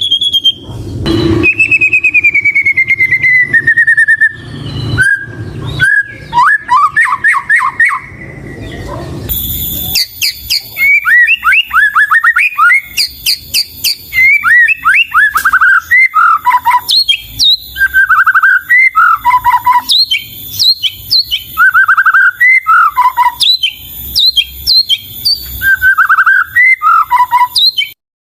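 White-rumped shama (murai batu) singing loudly: a long falling whistle, a run of quick notes, then phrase after phrase of short downward-sweeping whistles. The song cuts off suddenly near the end.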